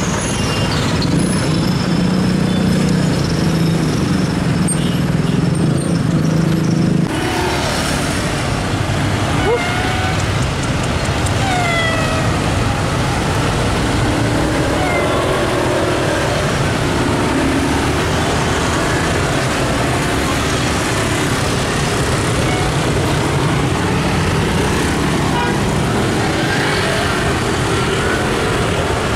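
Steady road traffic, motorcycles and cars, crossing a railway level crossing after the gate has opened, with a low engine hum. About seven seconds in the sound changes abruptly to a quieter steady street background, with a few short falling chirps a few seconds later.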